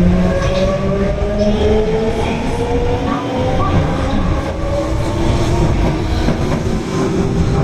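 Tanimachi Line subway train running, with a steady rumble of wheels on rail and a motor whine that climbs slowly in pitch as the train picks up speed after leaving a station.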